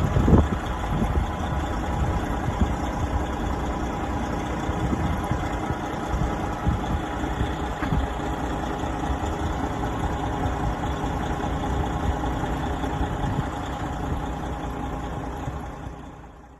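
Diesel engine of a 2011 Western Star 6900XD dump truck idling steadily, with a couple of louder knocks at the start, fading out at the very end.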